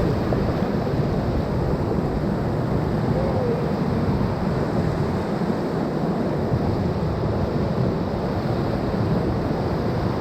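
Steady roar of rushing whitewater in a river rapid, mixed with wind buffeting the camera microphone.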